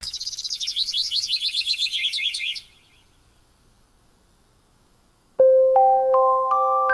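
A songbird gives a rapid, high twittering trill for about two and a half seconds. After a short hush, soft chime-like music notes start near the end.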